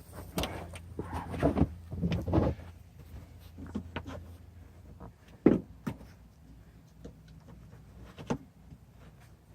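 Scattered knocks and clunks of seat and trim parts being handled and pulled inside a car's cabin, the sharpest about five and a half seconds in, over a low hum that stops about two and a half seconds in.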